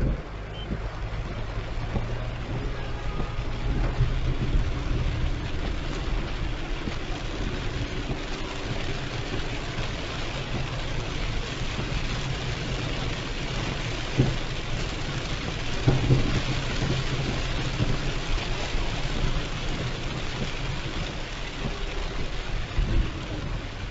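Heavy rain falling on a moving car, over the low hum of its engine and tyres on the wet road, with two short louder thumps a little past the middle.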